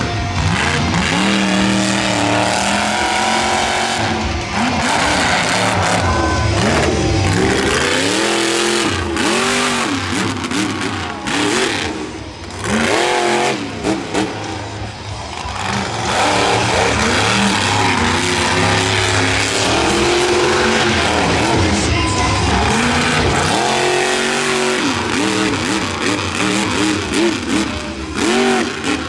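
Smashosaurus monster truck's engine revving hard again and again during a freestyle run, its pitch climbing and falling with the throttle. It lets off briefly about twelve seconds in and again near twenty-three seconds.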